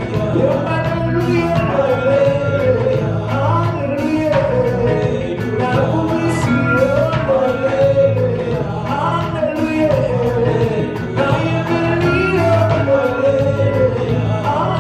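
Live church praise-and-worship music: a band with a steady drum beat playing a gospel song, with a wavering sung melody on top.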